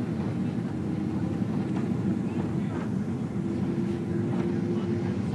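Steady jet airliner cabin noise inside a Boeing 777-200: the low rumble of the engines and airflow. A steady hum rises over it about three seconds in.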